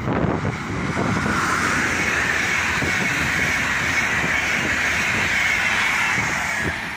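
Deutsche Bahn Intercity train, a red electric locomotive hauling white coaches, passing through at speed. A steady rush and rumble of wheels on rail builds over the first second or so and eases off near the end.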